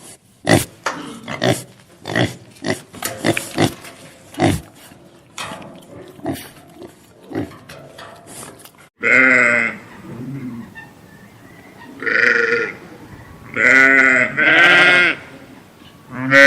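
About nine seconds of short, rapid animal grunts and snuffles, then a sheep bleating about five times, each call a second or less long.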